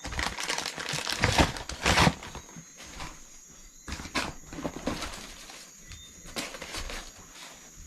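Packaging being handled, with irregular crinkling and rustling that is loudest in the first two seconds and then comes in sparser, shorter rustles.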